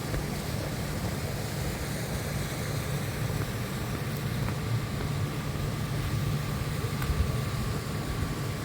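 A machine running steadily with a low, even hum and rumble, with a faint steady whine above it and a few light clicks.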